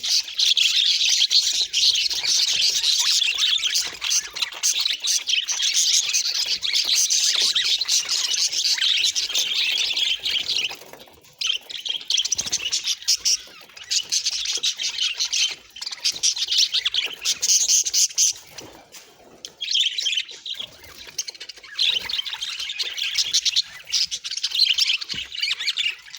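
Budgerigar chattering and warbling: a dense, fast stream of high chirps and squeaks, with short breaks about eleven and nineteen seconds in.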